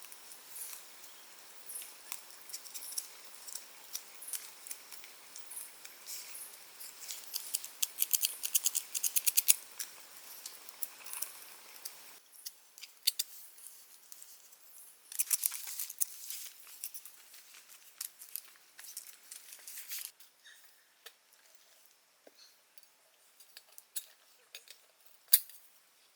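Close, crisp clicking and rustling of handling work, in quick runs that are densest about eight to ten seconds in, over a soft steady hiss that stops about halfway through.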